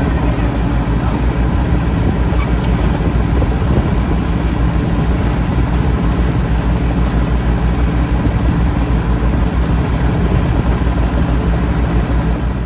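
World Star WS7.0 combine harvester running steadily: its Changchai 88 hp diesel engine and machinery make a loud, even drone.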